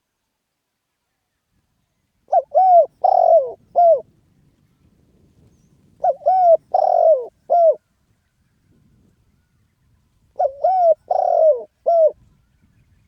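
Spotted dove cooing three times, about four seconds apart. Each phrase is four notes, with the third held longest.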